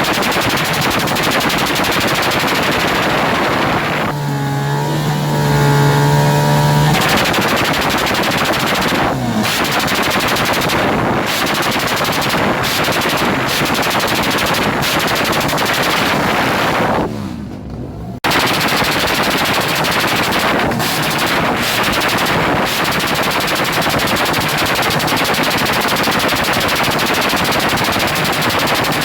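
Motorcycle engine held against its rev limiter, making a loud, rapid stuttering crackle like machine-gun fire. For a few seconds early on it gives a steady high engine note instead, and past the middle the sound briefly drops away before cutting back in sharply.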